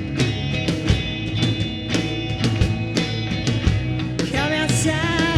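Rock band playing live: drum kit hits keeping a steady beat under guitar and bass, with a singing voice coming in about four seconds in.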